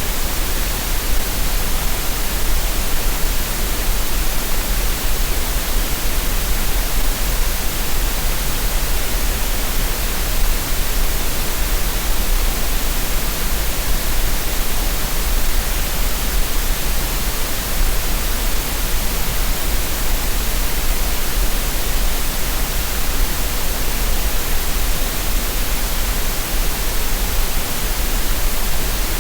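Steady green noise for relaxation or tinnitus masking: a continuous, even hiss with no changes.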